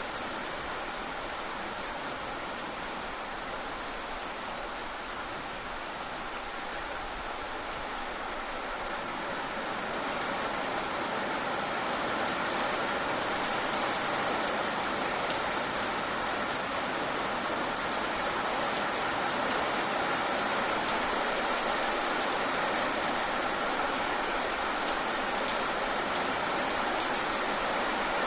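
Steady rain falling, with many small drop ticks, growing a little louder about a third of the way in.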